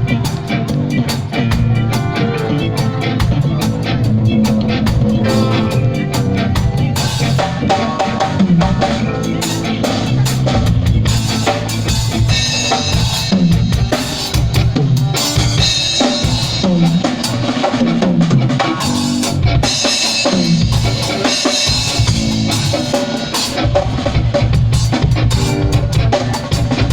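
A live band jamming, led by a drum kit playing a busy beat on bass drum and snare, with pitched instruments playing along.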